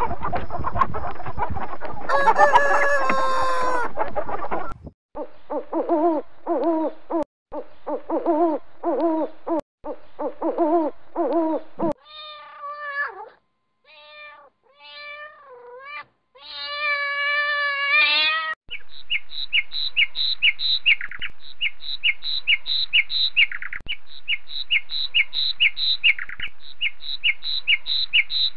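A run of animal calls: chickens clucking and calling, with a loud falling call about two seconds in. Then a cat meowing several times and one long drawn-out meow, followed by a long series of rapid high chirps.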